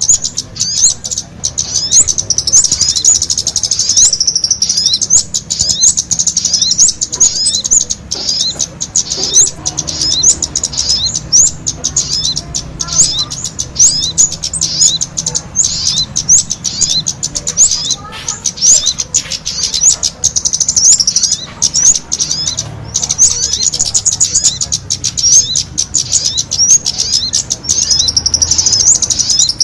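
Bird-lure recording of small songbirds, the sogon's call mixed with the kemade's: a busy, unbroken stream of rapid high chirps, many a second.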